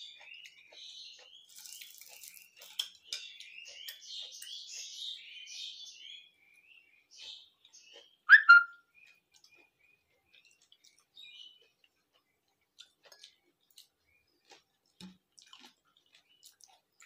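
Birds chirping busily in the background for the first several seconds, with two loud, sharp sounds close together about eight seconds in. After that only faint scattered clicks, such as fingers working food on a plate.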